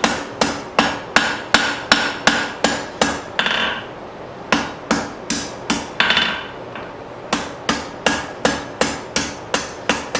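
Blacksmith's hand hammer striking 1/2 inch round steel bar on an anvil, forging the bar's end, in a steady rhythm of about three ringing blows a second. The blows pause briefly twice, about four seconds in and again about six seconds in.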